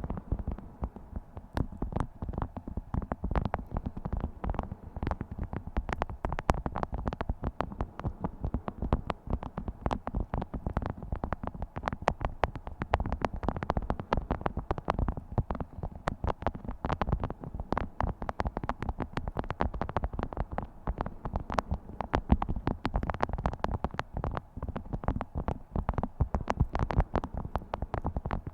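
Beeswax food wrap being crinkled and handled: a dense, unbroken crackle of many small clicks.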